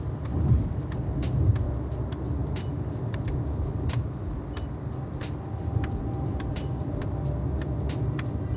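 Steady low rumble of a motor vehicle with many small sharp clicks and rattles scattered through it.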